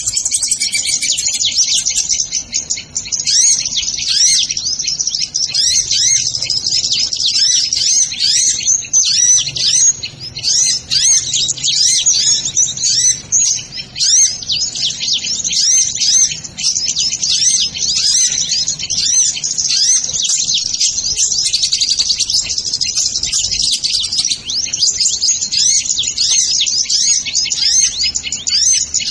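Sunbirds chirping and trilling without a break, a dense stream of rapid, high-pitched notes.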